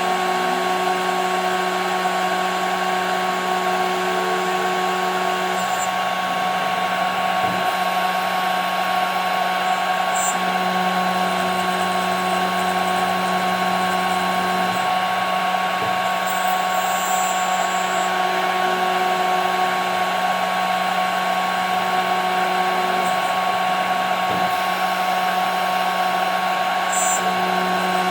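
CNC router spindle running steadily with a high whine as it machines 5 mm plexiglass. A lower hum under it shifts in level a few times as the cut goes on.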